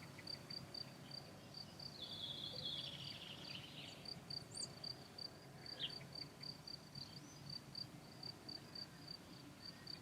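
A cricket chirping steadily and faintly, in a fast even pulse of about four to five chirps a second. A few brief faint bird chirps come in about two to six seconds in.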